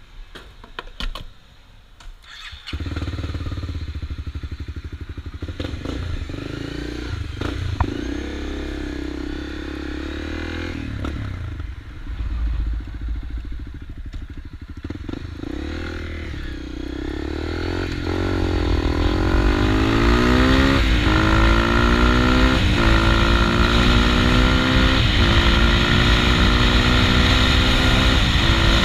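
Honda CRF250L's single-cylinder four-stroke engine, after a few clicks, starts up about three seconds in and runs at low revs while the bike gets under way. From about eighteen seconds it revs up through the gears, the pitch rising and then dropping back at each of four upshifts.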